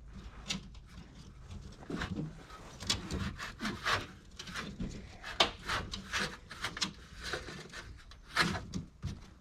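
Irregular scraping, rubbing and knocking of building material being worked by hand, with several louder scrapes or knocks spread through.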